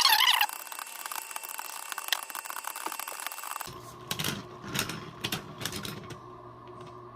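Beyblade Burst tops spinning and clashing in a plastic stadium: dense, rapid clicking and rattling. About three and a half seconds in, the sound changes to a quieter steady hum with scattered clicks.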